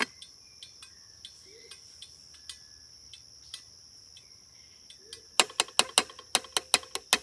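Forest insects trilling steadily at a high pitch, with a few faint chirps and scattered clicks. About five seconds in, a rapid run of loud, sharp clicks starts, several a second.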